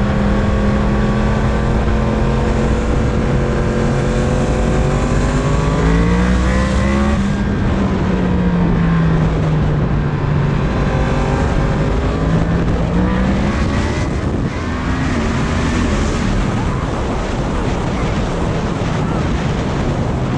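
Yamaha MT-10 motorcycle's inline-four engine running on the road, its revs climbing about six seconds in, easing off, and climbing again around twelve seconds in. Heavy wind noise buffets the microphone over the engine.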